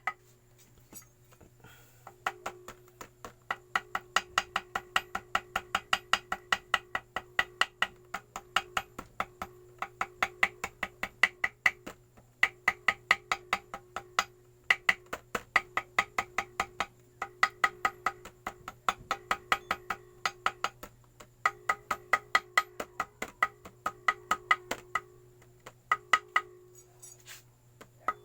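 Small hammer tapping rapidly on a metal engine part, about four light, ringing taps a second in runs with short pauses: gasket paper being tapped out against the motorcycle engine's mating surface to cut the homemade gasket to shape.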